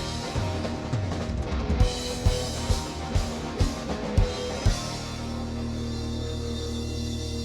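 Rock band playing live without vocals: drum kit hits over guitar and bass, then about five seconds in the drums stop and the instruments ring on in a held chord.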